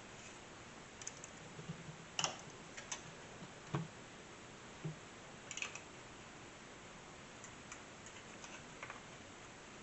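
A few light clicks and knocks of plastic parts being handled and pried at inside a desktop computer case, over a faint steady hiss.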